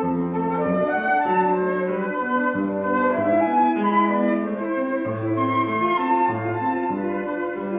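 Instrumental classical music played live at a concert: a melody of held notes moving step by step over a lower accompanying line, without a break.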